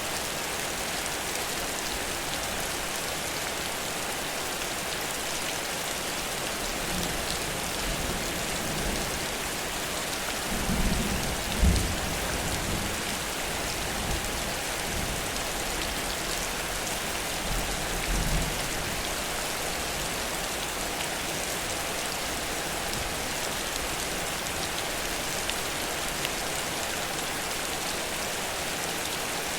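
Heavy rain falling steadily in a downpour. Two brief low rumbles rise above it, about ten seconds in and again a few seconds later.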